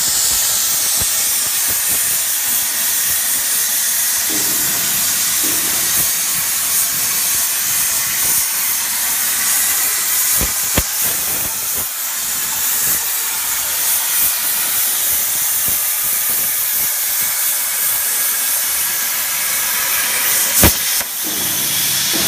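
CNC cutting torch hissing steadily as it cuts steel plate, with a few sharp clicks about ten seconds in and again near the end.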